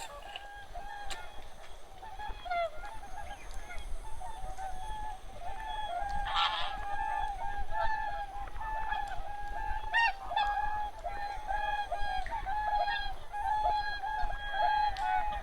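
A large flock of geese calling continuously, with many short honking calls overlapping one another. A brief rustling burst comes about six seconds in.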